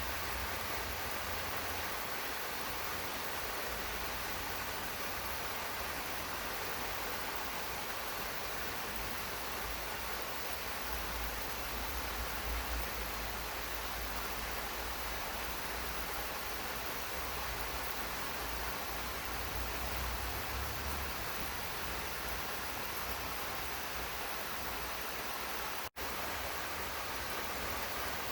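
Steady rain falling, an even hiss with a low rumble underneath, cutting out for an instant near the end.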